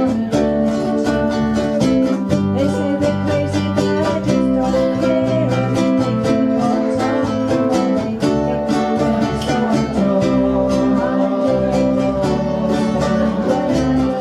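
Several ukuleles strumming chords together in a steady, quick rhythm, played live.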